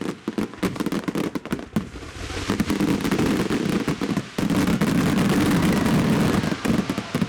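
Fireworks display: many sharp bangs of bursting shells in quick succession, thickening about two seconds in into a dense, continuous barrage.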